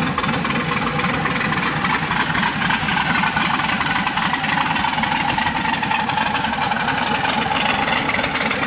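Car engine running steadily with a fast, even pulse. It cuts in and cuts off sharply.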